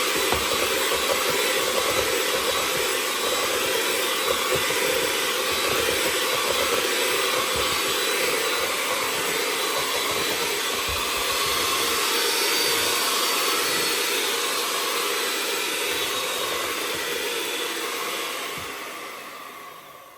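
Electric kitchen mixer running steadily as it mixes banana bread batter, then switched off near the end and winding down.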